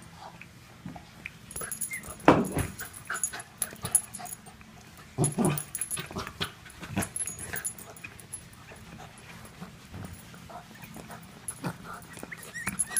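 An excited dog vocalizing in short separate bursts, the loudest about two and five seconds in, with scattered brief clicks between.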